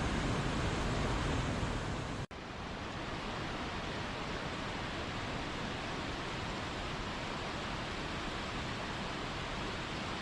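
Steady rush of falling water from a waterfall. It breaks off for an instant a little over two seconds in, then carries on with less deep rumble.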